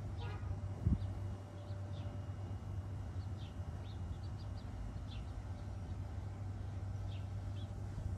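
Small birds chirping in short, scattered calls over a steady low hum, with a single dull thump about a second in.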